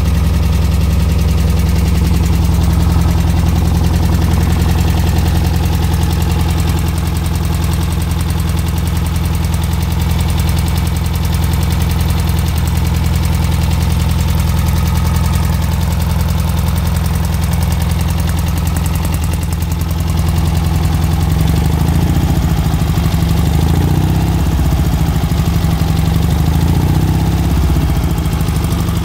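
Air-cooled Volkswagen flat-four engine with twin EMPI carburettors idling, a loud, steady low rumble. Its note turns more uneven about twenty seconds in.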